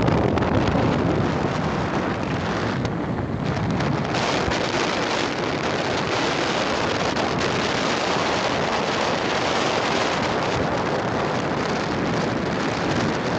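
Wind buffeting the microphone: a steady, fluctuating rush with no voices.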